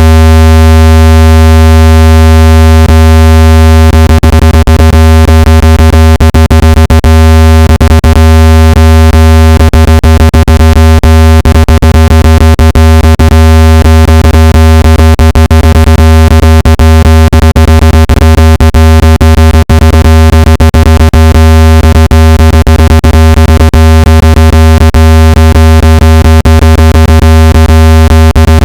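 Loud, steady, deep synthesized tone with a buzzy stack of overtones: a speaker-cleaning tone meant to vibrate dust and moisture out of a phone speaker. From about four seconds in, irregular clicks crackle through it.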